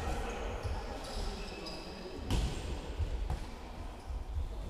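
Football match in play: the ball being kicked and bouncing in low thuds, with one sharp thump a little past two seconds in. Short high squeaks run through it, as of players' shoes on the floor.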